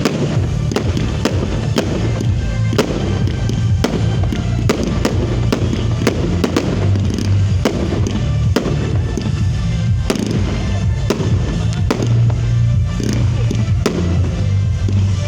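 Fireworks going off in quick, irregular succession, many sharp bangs and crackles, over loud music with a heavy bass.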